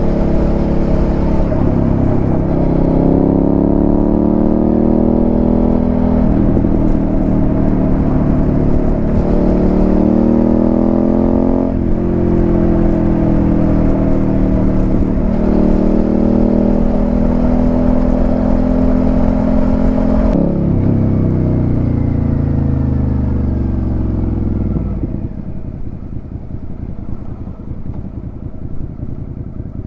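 Suzuki SV650 V-twin through a Delkevic aftermarket exhaust, pulling up through the gears: the pitch climbs, drops suddenly at each of three upshifts, then falls away as the bike slows. It settles to a quieter, low, steady note near the end.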